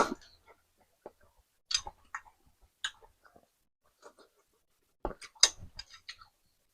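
Close-miked eating sounds: a few short, separate chewing clicks and lip smacks over a noodle meal, with a small cluster of them near the end.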